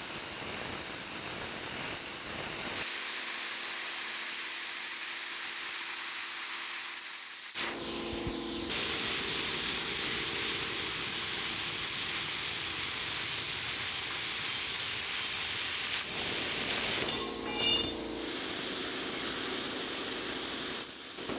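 Plasma cutter cutting sheet steel: a steady, strong hiss of the arc and air that shifts in tone several times over the cuts.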